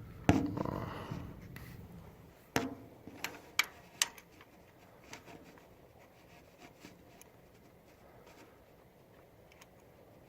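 Small metal parts and hand tools being handled: a clatter just after the start, then four sharp clicks in under two seconds, then faint scattered ticks.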